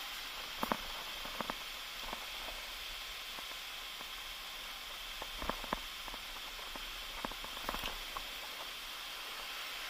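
Steady rushing hiss of waterfall water, with scattered sharp crunches of footsteps on the trail, in small clusters about a second in, midway and near the end.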